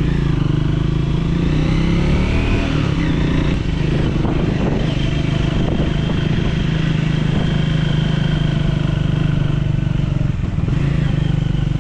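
Triumph Speed 400's single-cylinder engine running steadily as the motorcycle climbs a winding hill road, its pitch shifting briefly two to four seconds in.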